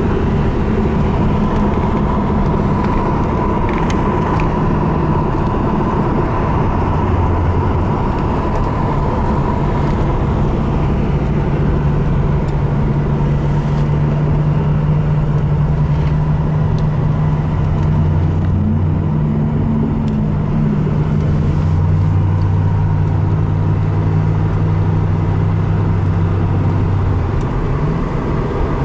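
Car engine and road noise heard from inside the cabin while driving at a steady cruising pace. The engine's low hum holds steady and steps in pitch a few times.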